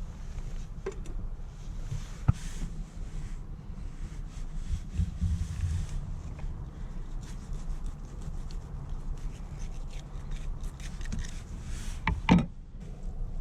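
Rubbing and scraping handling noise on a kayak over a steady low rumble, with a sharp knock a couple of seconds in and a louder knock near the end.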